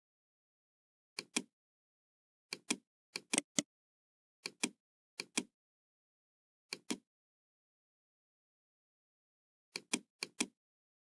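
Computer mouse clicking: about nine quick press-and-release click pairs at irregular intervals, with dead silence between them.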